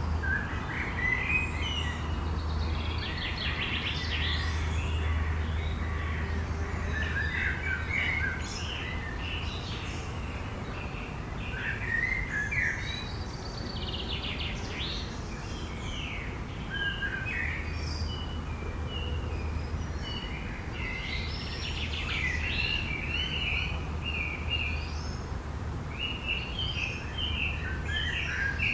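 Forest birdsong: several small birds chirping and trilling in overlapping phrases, with a low steady hum underneath that fades out for a stretch in the middle.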